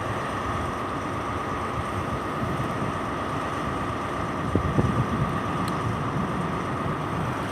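Diesel train engines running steadily at the platform, a low rumble with a steady high whine over it.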